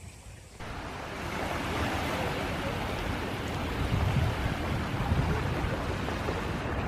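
Wind buffeting the microphone over the rush of sea water, starting abruptly about half a second in.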